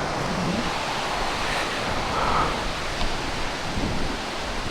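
Steady wash of lake waves, with wind buffeting the microphone.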